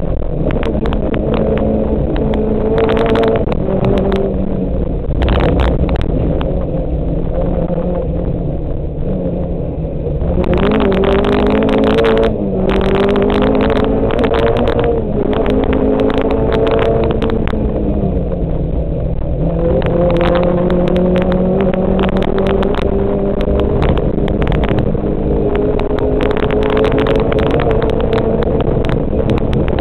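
Volkswagen Golf 2 GTI 16V rally car heard from inside the cabin at full stage pace: its four-cylinder 16-valve engine pulls hard, its note rising in long climbs and dropping at each gear change, over loud road noise and frequent short knocks from the car.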